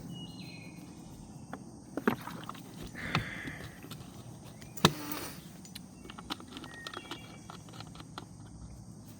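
Scattered clicks and knocks of a drink being handled and sipped, with one sharp click about five seconds in. High chirps come and go in the background.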